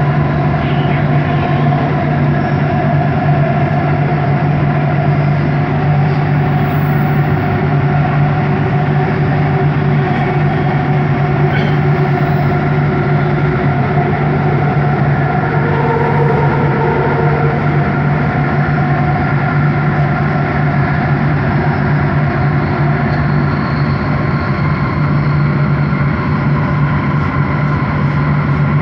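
Bombardier Innovia ART 200 metro train running at a steady speed, heard from on board. The linear induction motors give a loud, even hum with several steady tones above it, over constant rolling noise from the track.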